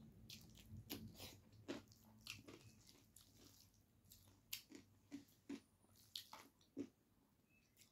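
Close eating sounds of a mouthful of rice and chicken being chewed: irregular wet clicks and smacks of the mouth, a dozen or so, growing sparser near the end.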